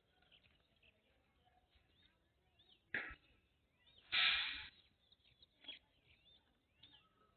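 Small birds chirping in the background. There is a short, sharp noisy burst about three seconds in, then a louder rush of noise lasting about half a second, and a fainter burst after that.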